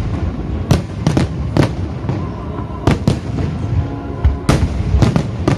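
Fireworks shells of a wide starmine bursting in quick, uneven succession, about eight sharp bangs each with an echoing tail, with music playing underneath.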